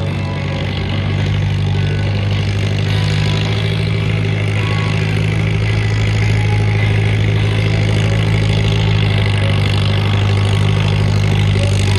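Tractor engine running at a steady pitch, slowly getting louder.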